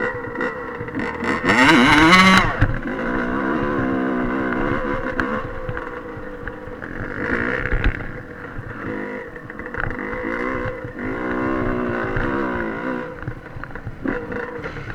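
Dirt bike engine being ridden, the throttle opening and closing so the pitch rises and falls, with a hard rev about two seconds in.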